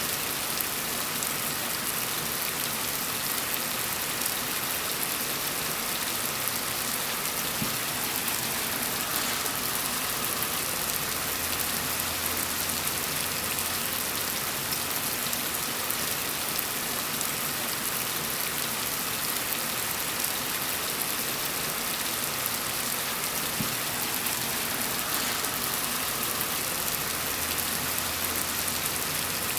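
Steady rain falling on a surface: an even hiss with faint, scattered patter of drops.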